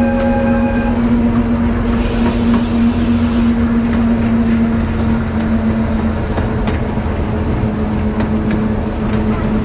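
Narrow-gauge forest railway train running, with a steady mechanical hum over continuous wheel-and-rail noise. A brief high hiss comes about two seconds in and lasts a second and a half.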